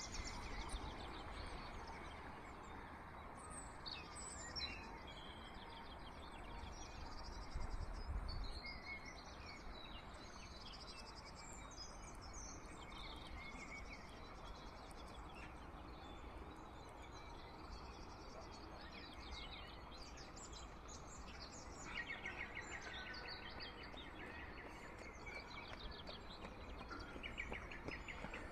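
Several wild birds chirping and trilling over a steady background hiss, with a brief low rumble about eight seconds in.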